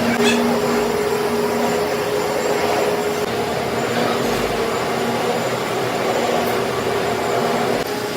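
Workshop machinery running steadily with a low hum under a noisy whir, dipping slightly in level near the end.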